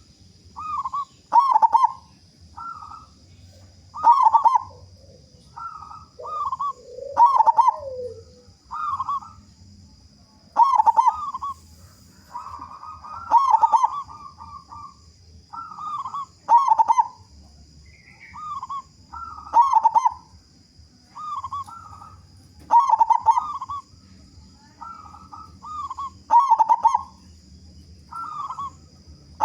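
Local zebra dove (perkutut) cooing: short phrases of clipped, rolling coos repeated every one to three seconds.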